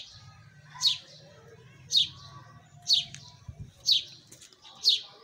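A bird repeating a short, high, falling chirp about once a second.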